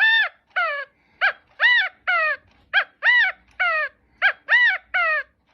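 Recorded California quail call played by a bird clock's hour chime: the three-note "chi-ca-go" phrase, a short note, a longer arched note and a falling note, repeated about every one and a half seconds, three full times.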